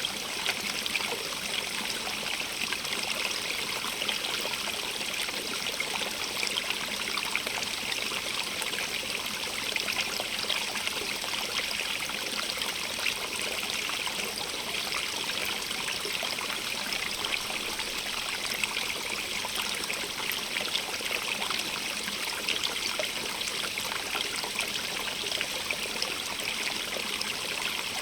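A stream running steadily, with trickling and splashing water over stones.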